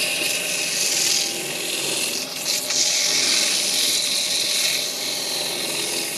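A hand tool scraping against wood spinning on a lathe: a steady, rasping hiss with a faint high whine, swelling slightly a few times.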